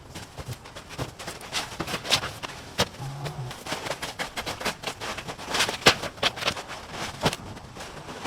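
Irregular clatter, knocks and rustling of junk and debris being handled and moved by hand, with one sharper knock a little before the six-second mark.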